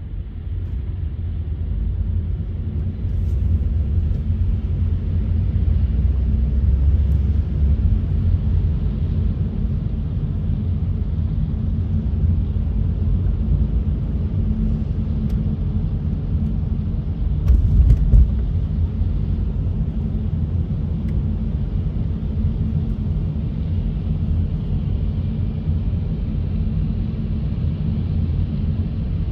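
Steady low rumble of a car on the move, road and engine noise, with a brief louder thump about eighteen seconds in.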